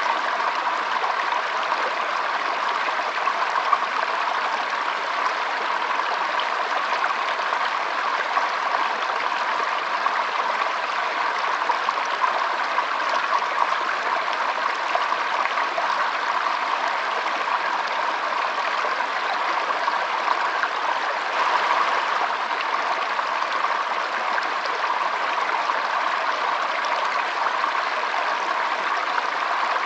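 Forest stream babbling steadily, an even rush of flowing water that swells slightly about two-thirds of the way through.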